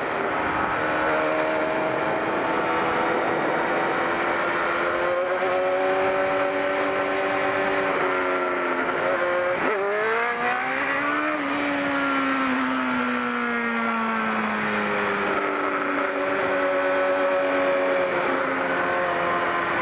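Motorcycle engine running while riding, with steady wind rush over the microphone. The engine pitch holds steady, dips and climbs sharply about ten seconds in, then falls slowly for several seconds as the bike slows, and levels off again near the end.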